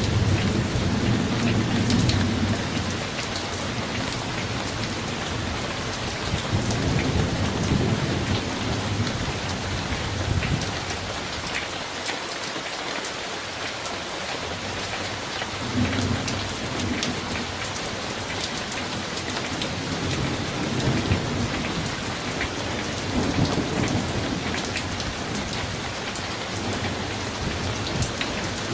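Summer thunderstorm: steady rain with individual drops ticking close by, and low rolling thunder that swells up several times, easing off for a few seconds around the middle.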